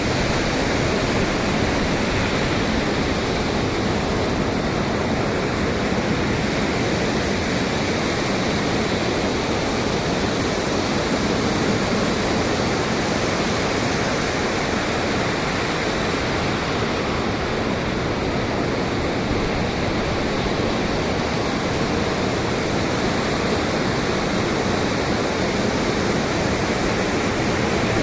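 Ocean surf and wind making a steady, even rush, with no single breaking wave standing out.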